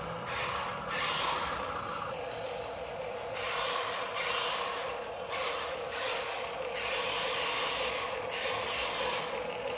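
Radio-controlled toy dump truck's small electric motor and gearbox running with a steady whine, under scraping noise that swells and fades every second or so.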